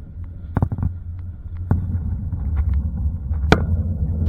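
A car's steady low road and engine rumble heard from inside the cabin while driving, with a few short sharp knocks, the loudest about three and a half seconds in.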